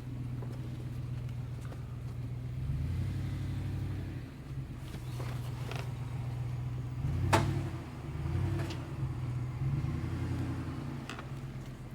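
Ford F-150 pickup's engine running at low revs while crawling a steep off-road trail, its note rising and falling a few times with small throttle changes. Scattered short knocks and clunks from the truck as it works over the terrain, the loudest about seven seconds in.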